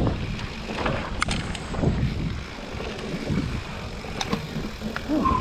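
Mountain bike rolling over a rough, muddy trail: a steady rumble of tyres on the ground with scattered clicks and knocks from the chain and frame.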